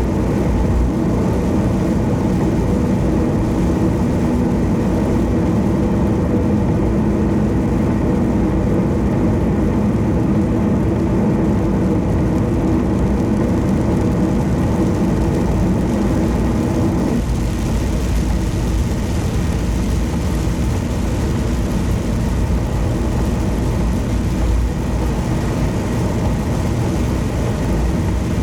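Car running at highway speed: a steady mix of engine hum and tyre and road noise. About two-thirds of the way through, the tone shifts and a higher hiss comes up.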